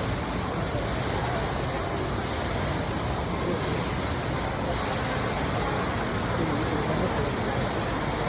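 Steady rush of water falling from a 15-metre indoor waterfall, with faint voices in the background.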